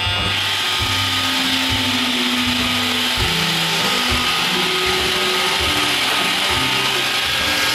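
iRobot Roomba 560 robot vacuum running a cleaning cycle: a steady whir of its vacuum motor and brushes.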